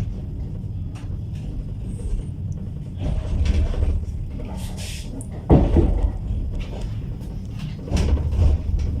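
Inside a passenger railway sleeper carriage: a steady low rumble, with three louder clunks and rattles about a second long, near three, five and a half and eight seconds in, like doors or fittings being moved.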